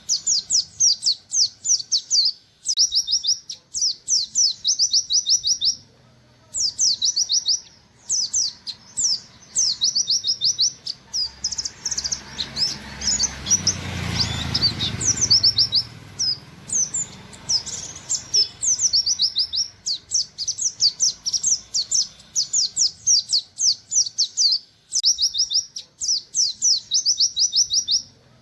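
White-eye (pleci, buxtoni type) singing in rapid 'nembak' strings of short, high, down-slurred 'wit wit' notes, burst after burst with brief pauses between. A low rumble swells and fades about halfway through.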